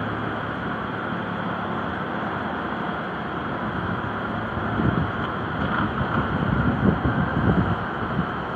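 Steady rushing outdoor ambience on a ship's deck, with wind gusting against the microphone in irregular low thumps toward the end.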